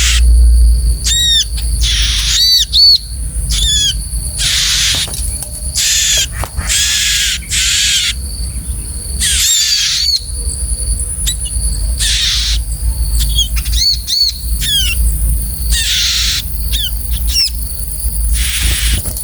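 Ciblek (prinia) calling: harsh rasping calls of about half a second each, repeated every second or two, with short quick chirps between them, over a steady high-pitched whine.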